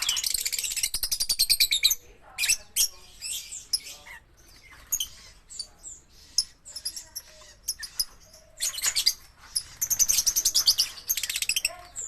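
Lovebirds chattering: two long runs of rapid, high-pitched chirping, one at the start and one from about nine seconds in, with scattered short chirps between.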